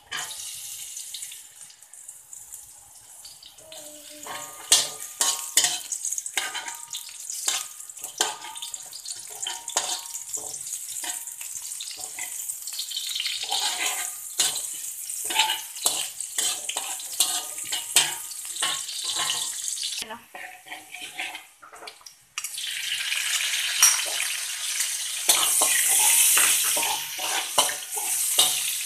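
Sliced shallots and dried anchovies frying in hot oil in a wok, a steady sizzle that starts suddenly as they go in. A metal spatula scrapes and taps against the wok as they are stirred. The sizzle breaks off briefly about twenty seconds in and comes back louder.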